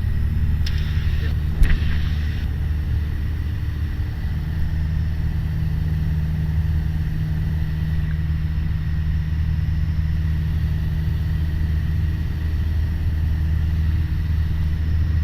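Piper PA-28 Warrior's four-cylinder Lycoming engine running steadily at downwind power, a constant low drone heard inside the cabin, with a single sharp knock about one and a half seconds in.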